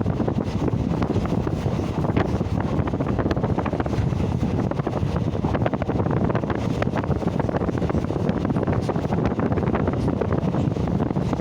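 Wind buffeting the microphone: a steady, loud rushing rumble with faint scattered clicks.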